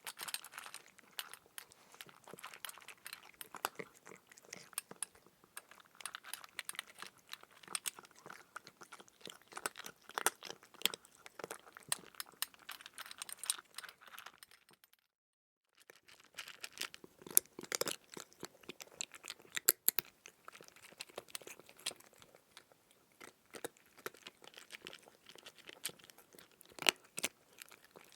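A cat chewing food: a dense run of rapid, irregular clicks from bites and chews, which cuts out for about a second halfway through and then carries on.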